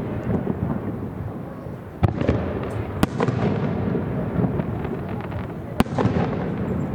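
Aerial fireworks shells bursting, with sharp reports about two, three and six seconds in, each followed by dense crackling over a continuous low rumble of the display.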